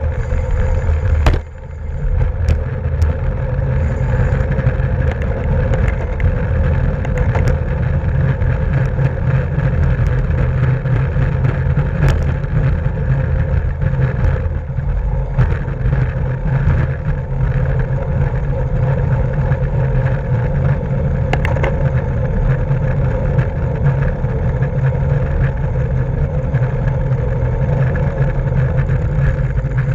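Steady wind rush and road rumble on the microphone of a camera riding along on a racing bicycle at speed. There is one sharp click about a second and a half in.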